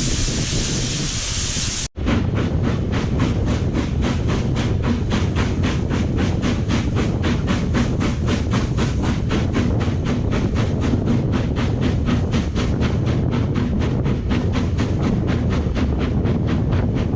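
A steady rushing hiss, then, after a cut about two seconds in, a train running with an even rhythmic beat about four times a second.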